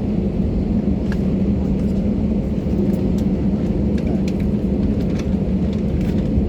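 Steady cabin rumble of an Airbus A320 taxiing after landing, with a constant hum and a few faint clicks.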